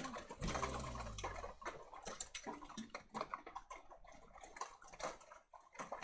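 Rain dripping and pattering in quick, irregular ticks. A low sustained tone fades out in the first second and a half.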